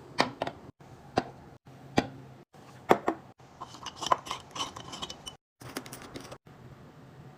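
Clinks, taps and knocks of food containers and packaging being handled and set down, with some ringing clinks of glass or hard plastic about halfway through. The sounds come in short cut-together snippets separated by sudden brief silences.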